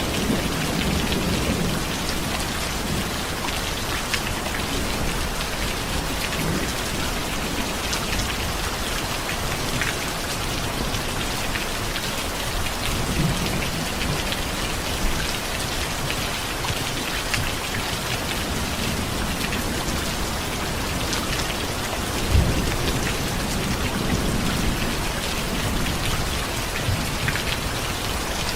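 Steady, dense rain falling, with low rolls of thunder rumbling under it: one at the start, one around the middle, and a stronger one that swells up about two-thirds of the way through.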